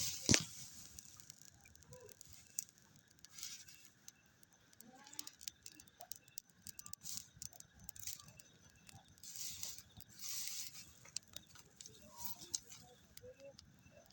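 Light rustling and scattered small clicks and taps, with a few faint short chirps now and then.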